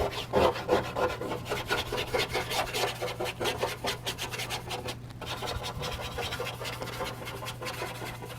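Flat paintbrush scrubbing charcoal dust into charcoal paper in quick, repeated small strokes, a dry rubbing sound, with a brief pause about five seconds in.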